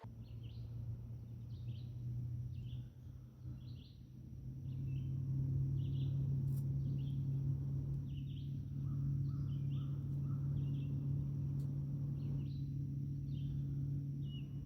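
Woodland ambience: a bird giving short chirps about once or twice a second, over a steady low hum that grows louder about five seconds in, with a faint steady high-pitched whine above.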